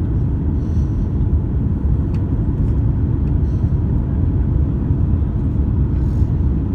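Steady low rumble of an Airbus A350-900 airliner heard from inside the economy cabin, with a few faint light rattles over it.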